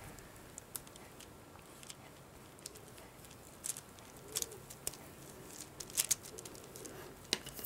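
Quiet room with a few faint, scattered clicks and light taps, as of craft materials being handled on a work surface.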